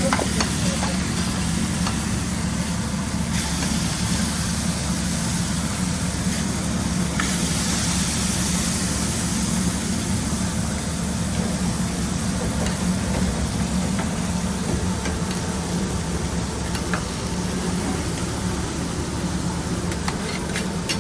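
Food frying on a hot griddle, a steady sizzling hiss that grows brighter for several seconds about a third of the way in, over a steady low hum, with a few light clicks of utensils.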